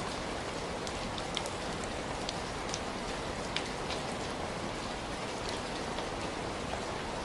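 Heavy rain falling steadily, a dense even hiss with scattered individual drops ticking sharply on top.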